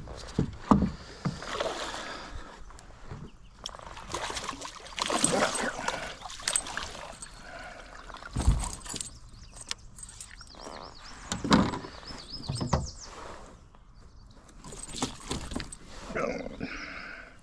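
Water swishing and splashing in irregular strokes as someone moves through a river, with one heavy thump about eight and a half seconds in.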